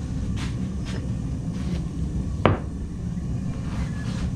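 Steady low rumble of a running forge, with a single sharp metal clank that rings briefly about halfway through and a few faint clicks.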